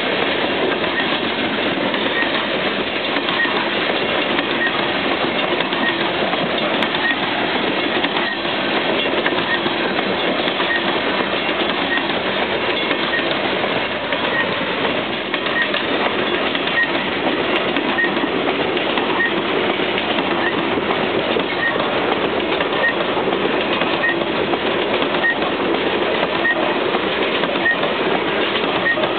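Steady rolling rumble and rattle of a long string of CP covered sulfur hopper cars passing on the track, with no locomotive sound. A level-crossing warning bell dings faintly and regularly, a little faster than once a second.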